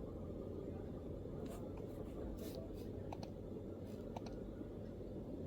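MacBook laptop keyboard: a few scattered keystrokes, about eight sharp clicks bunched in the middle, rather than steady typing, over a steady low background murmur.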